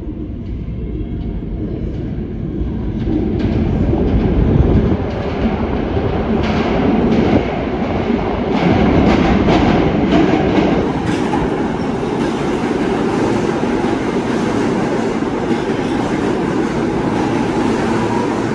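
New York City subway L train running on the rails of an underground station: a rumble builds about three seconds in and grows loud, with a run of clacks as the wheels cross rail joints, then settles into a steady loud rolling noise.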